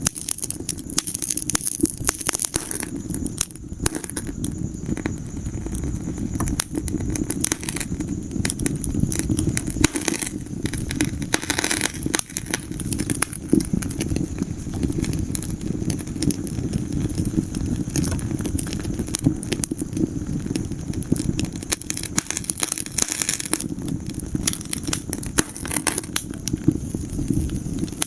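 Wood fire burning in a fireplace: dense, irregular crackles and pops over a steady low rumble of flames.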